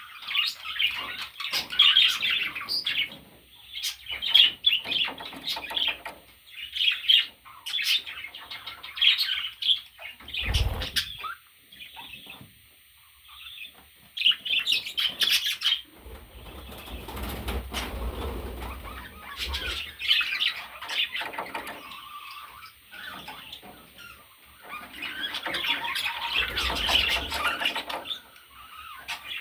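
Pet budgerigars chattering and squawking in quick, busy bursts, with stretches of wing flapping.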